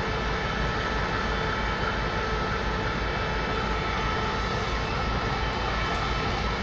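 Steady running noise of a train heard from on board as it rolls slowly through the station tracks: a low rumble with a constant whine above it.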